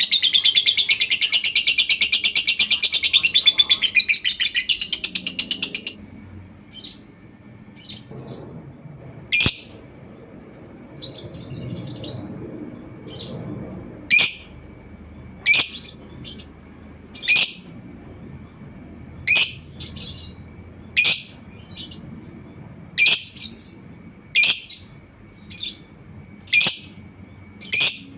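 Lovebird singing its long 'ngekek' song, a loud, very fast chattering trill that stops about six seconds in. After that come single short, sharp chirps, about one every one and a half to two seconds.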